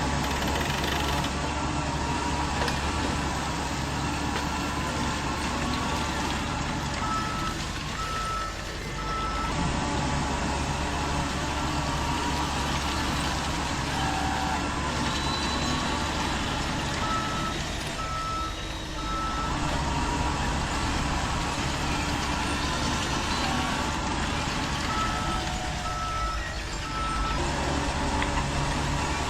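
Radio-controlled construction vehicles running, with an electronic reversing beeper sounding in three short runs of about four high beeps each, spaced roughly eight to ten seconds apart.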